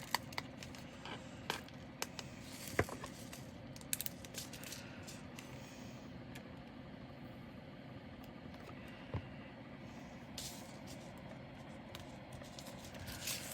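Scattered small clicks and light rustling as plastic bags of diamond-painting drills are handled and sorted, over a faint steady background hum.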